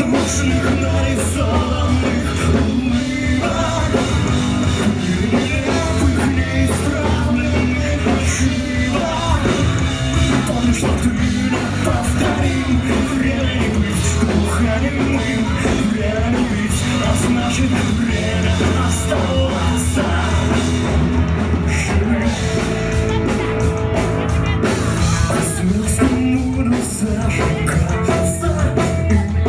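Rock band playing a song live, with guitar and drums.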